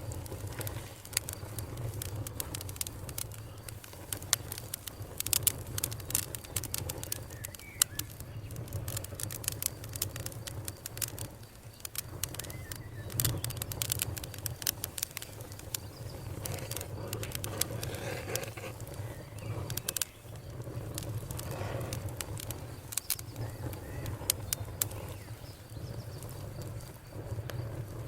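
Campfire crackling and popping in frequent irregular snaps over a low steady rumble of burning.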